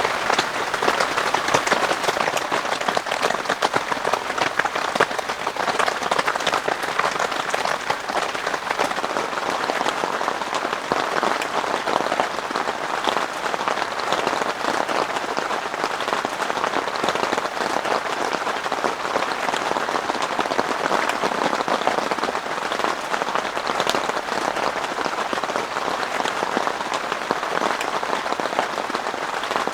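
Heavy rain falling steadily without letup: a dense, even hiss of countless drops.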